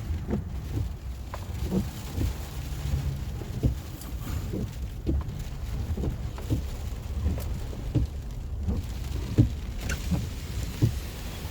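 Tropical-storm wind buffeting the microphone: a steady low rumble with irregular low thumps about once or twice a second, over a faint hiss of rain and spray.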